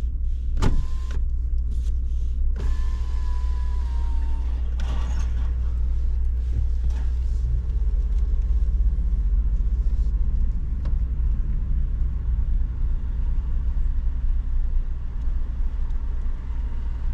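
Steady low road and engine rumble inside a Honda ZR-V's cabin while driving, with a click about half a second in and a short electronic tone about three seconds in.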